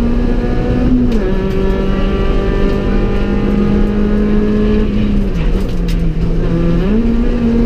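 Honda Civic EK4 rally car's four-cylinder engine heard from inside the cabin, running hard at steady revs. The pitch dips briefly about a second in and again around five and a half seconds, then climbs back near the end.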